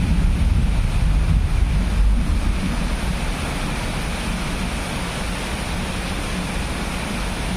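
Thunder rumbling low over a steady hiss. The rumble is heaviest in the first couple of seconds, then eases into a steady hiss.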